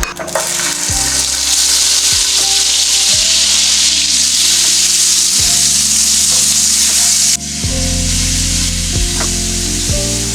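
Food sizzling steadily as it fries in butter in a pan. The hiss starts abruptly, dips briefly about seven seconds in, then carries on.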